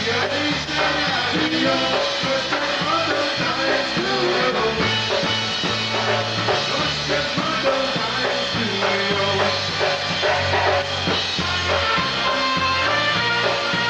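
Polka band playing live: a steady bass and drum-kit beat under a melody line.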